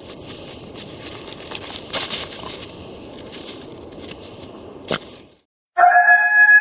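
Irregular crackling, crunching noise with scattered sharp clicks for about five seconds, then it stops. Near the end a loud pitched tone with several overtones starts, sliding slowly down.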